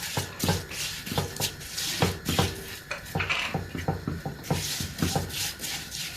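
A spoon scraping and knocking against a pot, several strokes a second, as vermicelli is stirred while it fries in oil, with steady sizzling underneath.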